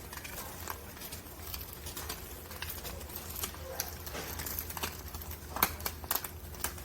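Eggs frying in a ceramic-coated stainless steel pan: a quiet sizzle with scattered crackling pops, thickest near the end, over a steady low hum.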